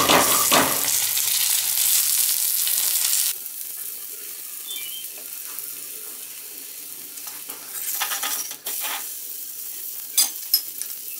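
Corn-flour roti sizzling in ghee on a hot iron tawa. The sizzle is loud at first, drops suddenly to a quieter hiss about three seconds in, and a few sharp crackles come near the end.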